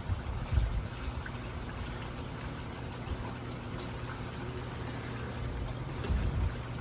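Wind buffeting the microphone in irregular low thumps, strongest near the start and again near the end, over a faint steady low hum.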